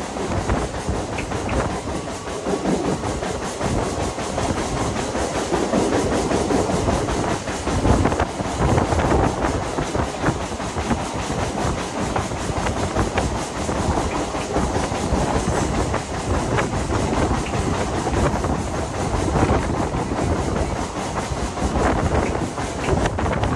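Mumbai suburban local electric train running at speed, heard from an open coach doorway: a steady rumble of wheels on rail with a continual clatter of clicks as the wheels cross rail joints and points.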